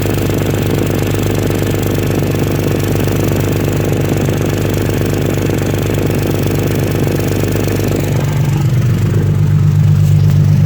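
Engine idling with an exhaust leak, a steady rapid pulsing over a low hum. About eight seconds in the sound changes: the higher rasp fades and the low hum gets louder.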